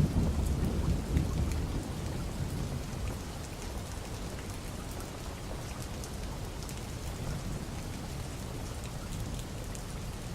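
Steady rain falling, with scattered drop ticks, and a low rumble of thunder in the first few seconds that dies away.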